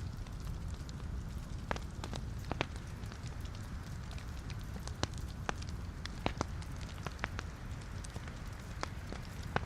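Wood fire of logs burning in a fireplace: a steady low rumble of flame with irregular sharp crackles and pops from the burning wood.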